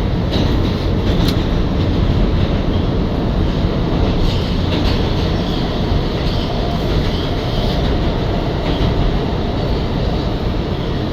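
R211A subway car running at speed through the tunnel, heard from inside the car: a steady loud rumble of wheels on rails, with a few sharp clicks from the track.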